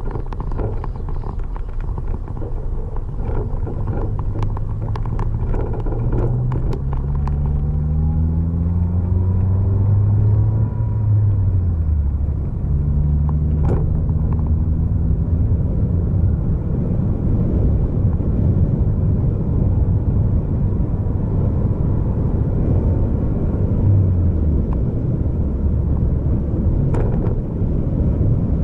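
A road vehicle driving, its engine note climbing in pitch several times as it accelerates and shifts gears, over a steady rumble of road noise. A few sharp clicks or knocks are heard in the first few seconds, with single ones about halfway through and near the end.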